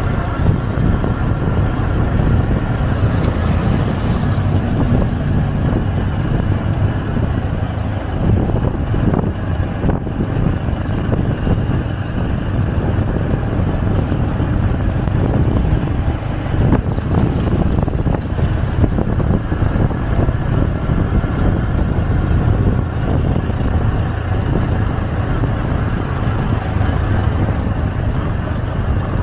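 Motorcycle taxi riding at speed through city traffic: the engine runs under a steady rumble of wind buffeting the microphone.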